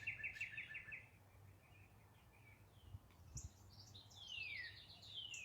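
Faint backyard birdsong: a fast trill of short, even notes, about eight a second, that stops about a second in, then two falling whistled notes near the end.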